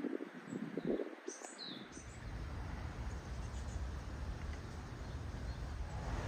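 A Japanese bush warbler giving one short, odd call, a high note that slides down, a little over a second in. From about two seconds in, a steady low rumble of distant traffic sets in.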